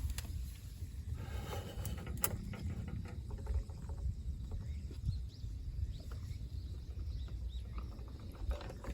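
Low, steady outdoor rumble with a few light clicks and knocks, and faint distant voices briefly about a second in.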